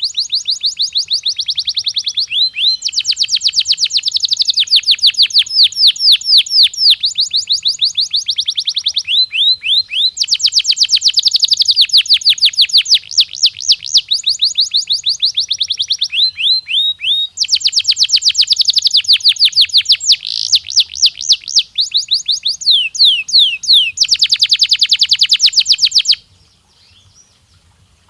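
Canary singing a long song of rapid trills, each phrase a fast run of repeated sweeping notes, switching to a new phrase every second or two. The song stops abruptly near the end.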